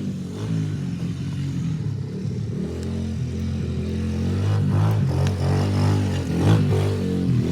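Dirt bike engine idling, its pitch wavering and rising briefly about six and a half seconds in.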